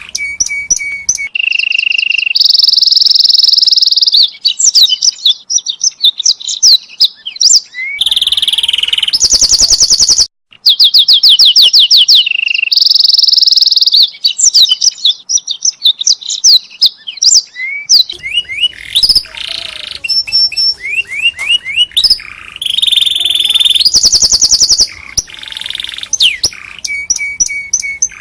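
Domestic canary singing a long song of fast trills and rolls, rapid runs of repeated notes and whistled phrases. The song breaks off briefly about ten seconds in.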